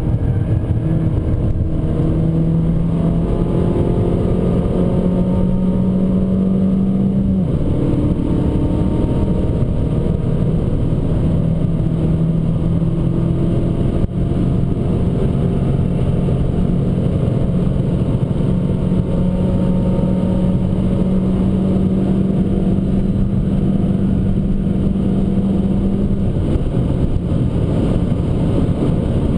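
Abarth 595 Competizione's turbocharged 1.4-litre four-cylinder engine pulling hard, its revs climbing, falling sharply about seven seconds in, then holding high and climbing slowly before dropping again near the end.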